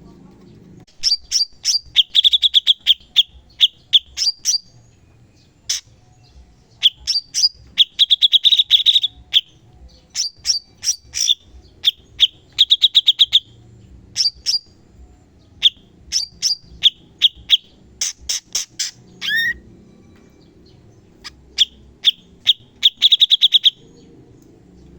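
Cucak cungkok songbird singing in bursts of rapid, sharp, repeated high notes, each run lasting a second or few, with short pauses between. This is the fast 'tembakan' (shot) phrasing used as a masteran to train other songbirds.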